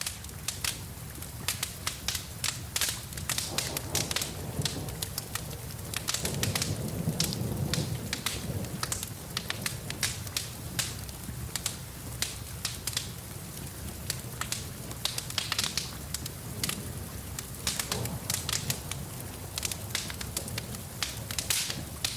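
Wood fire crackling, with irregular sharp pops, over a steady hiss of rain. The low rumble of the flames swells for a couple of seconds about six seconds in.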